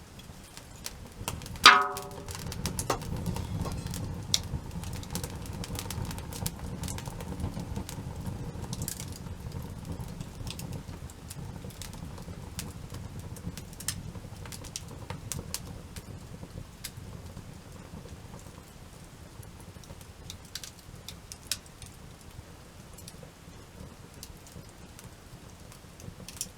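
Wood campfire burning, with scattered crackles and pops over a low rumble of flames that slowly dies down. A short, loud ringing knock comes about two seconds in.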